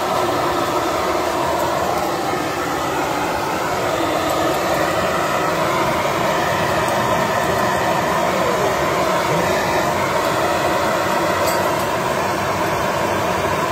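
Vacuum cleaner motor running steadily, a constant whirring drone that holds an even level.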